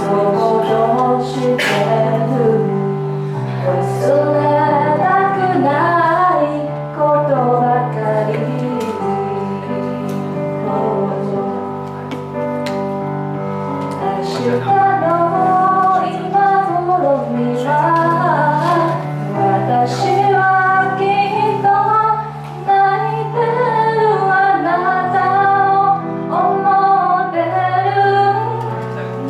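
A woman singing a slow Mandarin ballad with vibrato over an instrumental backing track of sustained chords.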